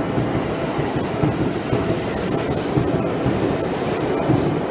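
Seibu 10000 series 'New Red Arrow' electric limited express passing close by at speed: a loud, steady noise of its wheels running on the rails as the cars go by.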